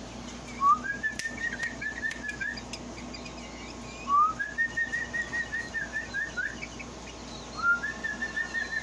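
A bird calls three times, evenly spaced. Each call is a quick rising note followed by a run of wavering whistled notes, about one and a half seconds long.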